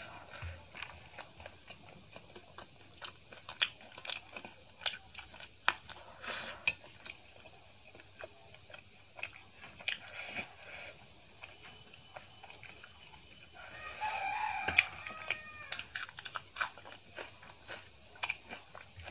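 Close-miked chewing of rice eaten by hand: wet mouth clicks and smacks at an irregular pace. About three-quarters of the way through, a short pitched animal call sounds in the background.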